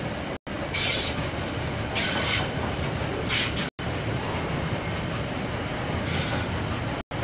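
KiwiRail train rolling past with a steady rumble of wheels on rail, broken by four short, high-pitched wheel squeals. The audio cuts out for an instant three times.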